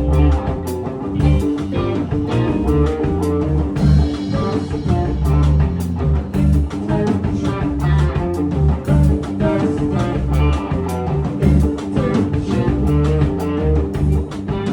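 Psychedelic rock: a baritone Danelectro electric guitar playing low, heavy riffs over drum kit.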